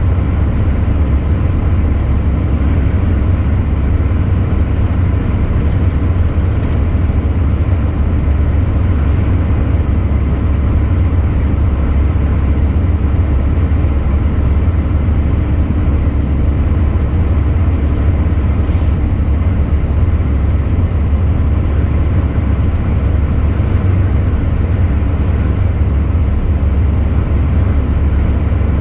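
Truck under way: a steady low engine drone with road noise, unchanging throughout.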